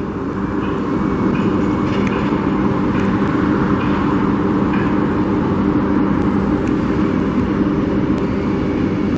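Road traffic at street level: a large vehicle's engine running steadily close by over the noise of passing cars.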